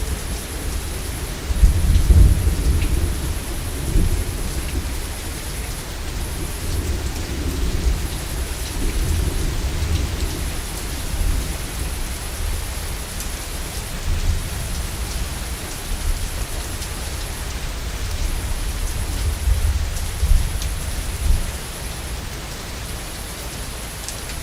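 Heavy rain falling steadily, with thunder rolling underneath. The deepest rumbles swell a couple of seconds in and again in the last few seconds.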